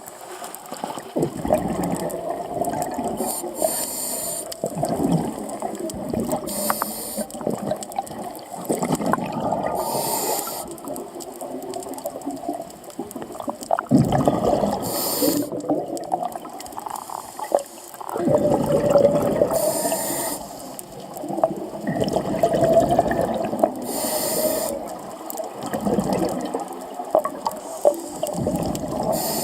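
Scuba diver breathing through a regulator underwater: a short hiss on each inhale about every four to five seconds, and a bubbling rush of exhaled air between them.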